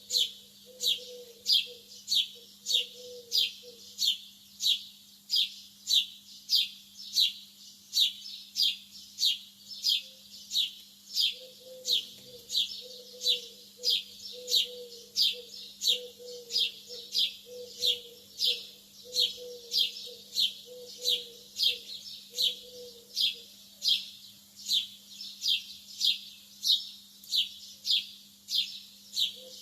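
Lovebirds chirping: an even, unbroken run of short, shrill, falling chirps, about two a second, over a low steady hum.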